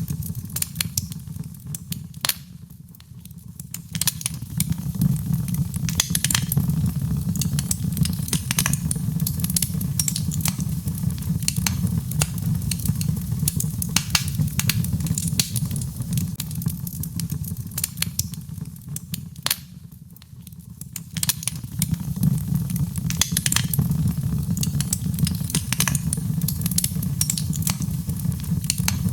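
Birchwood fire burning in a fireplace: a steady low rumble of flame with frequent sharp crackles and pops. The fire eases off briefly twice, a few seconds in and again about two-thirds of the way through.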